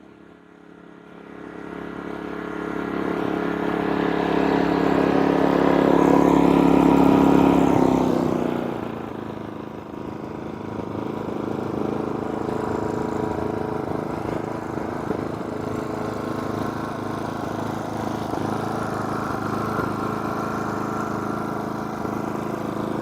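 Genmax GM3500Xi open-frame inverter generator running with eco mode off. It swells louder over the first seven seconds or so, falls back around eight seconds in, then runs steadily.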